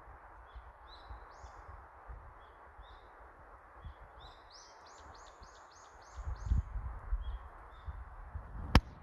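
Small bird chirping in short high notes, with a quick run of about six repeated notes in the middle, over a steady background hiss. A low rumble comes in briefly about six seconds in, and a single sharp click sounds near the end.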